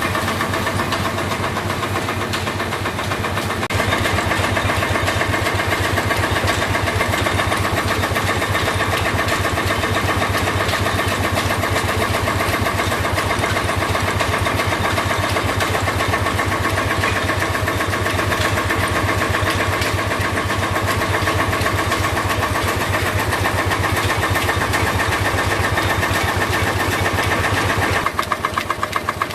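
Stationary engine in a power house running steadily, with a fast even beat. It gets louder about four seconds in, and near the end the beat turns into distinct, separate thumps.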